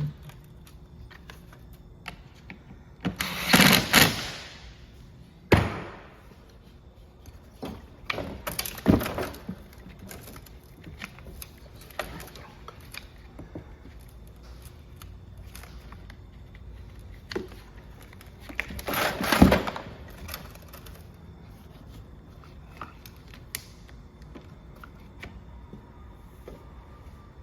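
Hands handling tools and small parts during a string trimmer clutch repair: scattered clicks and knocks, with two louder rustling scrapes, one about three and a half seconds in and one about nineteen seconds in.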